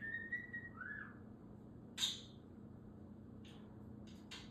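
Pet budgerigar whistling and chirping: a held whistle, then a short up-and-down note, a single loud chirp about two seconds in, and a few soft chirps near the end.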